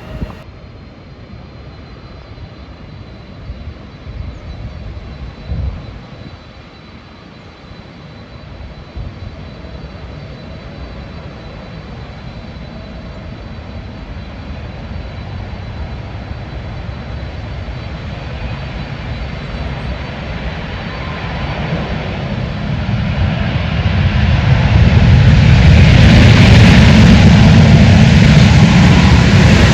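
Airliner's engines growing steadily louder as the aircraft approaches, very loud over the last few seconds.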